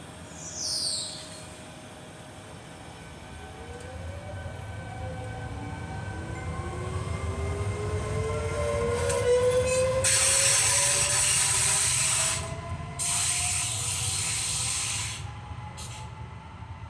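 Train running by, its rumble building with several whining motor tones that slowly rise and fall in pitch. Two bursts of hissing come about ten and thirteen seconds in, each lasting about two seconds, and a short high falling squeal sounds near the start.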